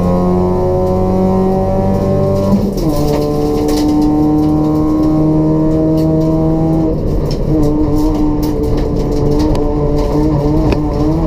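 Race-prepared Toyota Etios's 1.5-litre petrol engine with free-flow exhaust, pulling under load. The note climbs, drops sharply at an upshift about two and a half seconds in, and climbs again. It drops once more around seven seconds in and then holds with a wavering pitch.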